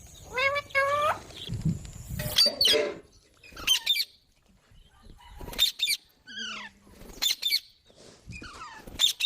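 Pet green parrot giving a series of short, sharp screeching calls, one every second or two, with a longer rising call near the start and a falling call about two-thirds of the way through.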